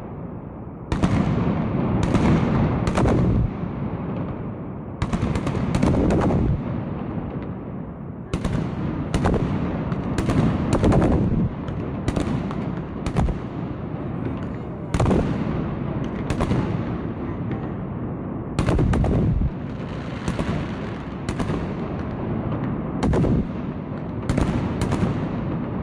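Aerial firework shells (sky shots) bursting: a long irregular run of sharp bangs, often two or three in quick succession, each trailing off into a rumbling echo.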